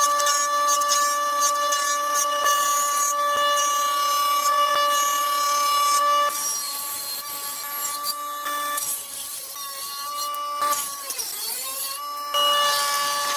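Electric woodworking power tool motor running with a steady whine. Around 11 seconds in the pitch dips briefly and recovers, as the motor takes load in a cut.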